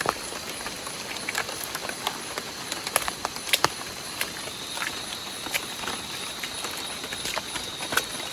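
Rain falling with scattered, irregular drips and taps, such as drops striking a tarp or leaves. A thin, steady high tone joins about halfway through.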